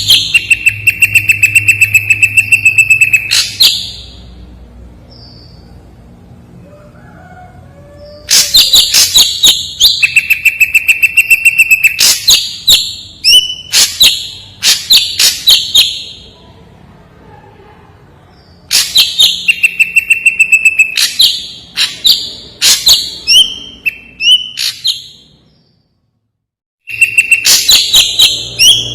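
Ashy drongo song: loud bouts of a few seconds each of rapid, clear chirps and a held high whistle, four bouts roughly nine seconds apart with quieter pauses between. A brief dead silence comes just before the last bout.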